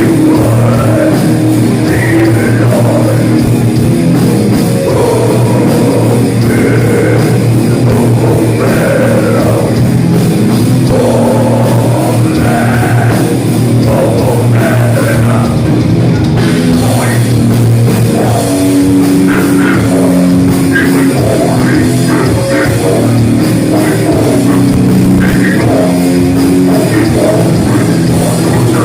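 A live heavy metal band playing loud, with distorted electric guitars and a drum kit.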